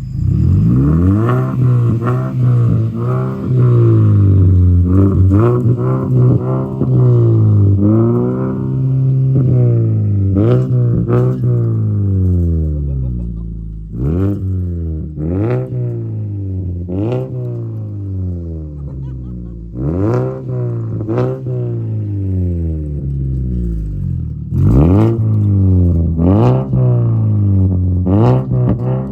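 2014 Mazda 3's 2.0-litre four-cylinder engine revved again and again through a straight-piped exhaust with the resonator deleted and a partly hollowed catalytic converter, each rev rising and falling back. The throttle blips come in quick runs, with short spells of idle between them. The revving blows loose catalyst debris out of the cat.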